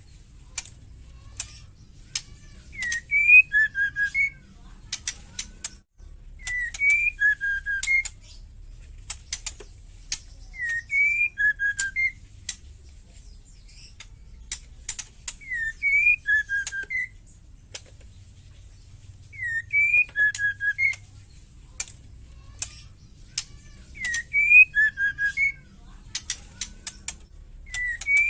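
Female white-rumped shama calling: a short whistled phrase, a rising note then two quick lower notes, followed by a run of dry rattling clicks (the 'ketrek' chatter). The phrase repeats about every four seconds, seven times.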